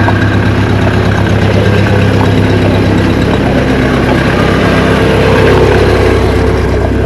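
A motor vehicle engine running steadily close by, with a low hum that swells slightly about five seconds in.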